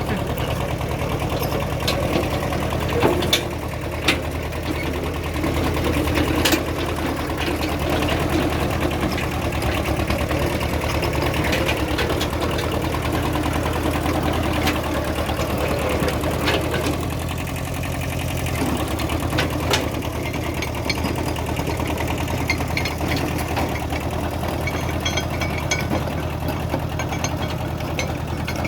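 An engine idling steadily, with a few sharp knocks scattered through.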